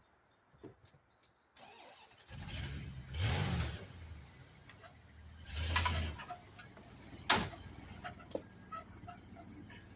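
A homemade Doodlebug skidder's truck engine, from a 1990 Dodge W250, is started and catches about two seconds in. It is revved twice, then settles into a steady idle, with a single sharp knock partway through.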